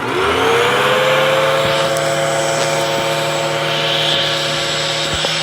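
Hoover vacuum cleaner motor switched on for a hose suction test. It spins up with a rising whine over about the first second, then runs steadily with a rushing airflow hiss.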